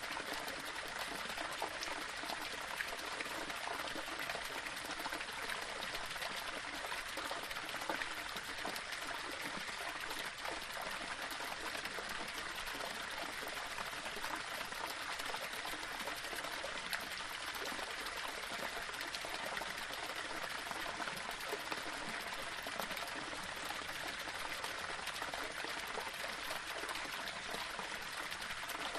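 Small waterfall splashing and trickling over rocks, a steady rush of flowing water with small splashes.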